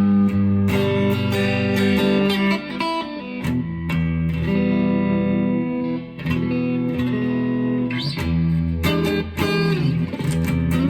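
2002 Squier Affinity Stratocaster electric guitar played on a clean amp tone. Chords are strummed and left to ring, with picked notes between them.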